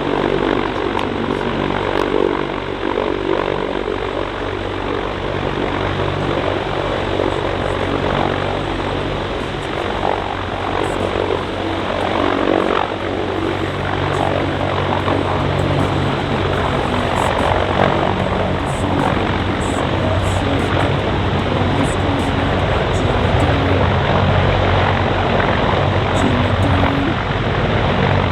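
US Navy MH-53E Sea Dragon, a heavy three-engine helicopter, flying its display: a steady, loud rotor beat and turbine noise that grows slightly louder near the end.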